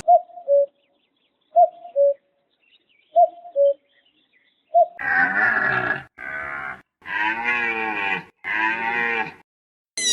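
A bird gives a short two-note call, a higher note then a lower one, three times at an even pace. Then a farm animal calls loudly in four long, rough bursts with short gaps between them.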